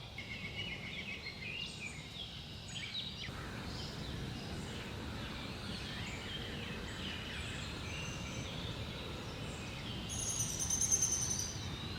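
Outdoor ambience: songbirds chirping and calling over a steady low background rumble, with a rapid high-pitched trill about ten seconds in.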